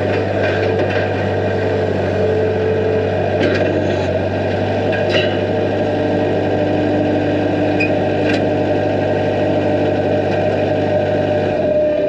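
A machine runs steadily with a low hum and a few light clinks, then shuts off near the end.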